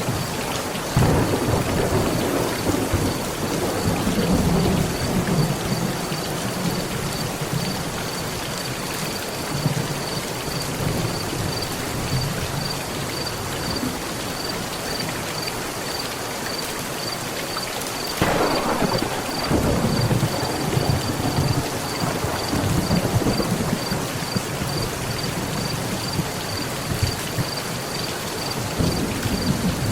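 Steady heavy rain drumming on a metal roof, with thunder: a low rolling rumble building about a second in, and a sharper clap about 18 seconds in that rolls on and fades over several seconds.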